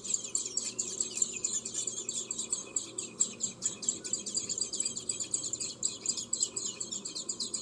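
Recorded songbird chirping played through an iPad's speaker by an animal-sounds app: a rapid, continuous twitter of short high chirps, several a second, without a break.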